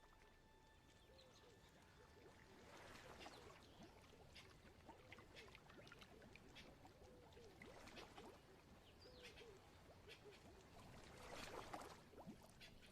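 Faint wetland ambience: a chorus of small frog calls, many quick rising-and-falling chirps, with soft water splashes swelling now and then, loudest near the end.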